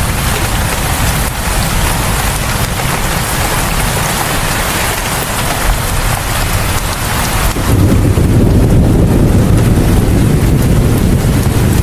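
Rain falling in a steady hiss. About eight seconds in, a low rumble comes up beneath it and the hiss thins.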